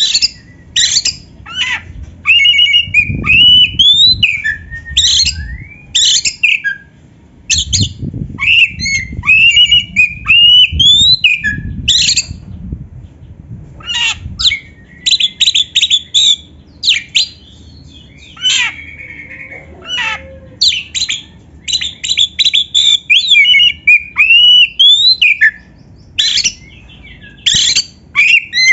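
Oriental magpie-robin (kacer) singing loudly: bursts of sharp, rapid chip notes mixed with rising whistled phrases, broken by short pauses.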